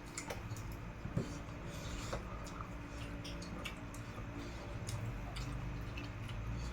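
Close-miked eating: chewing with scattered small wet clicks and smacks, over a steady low hum.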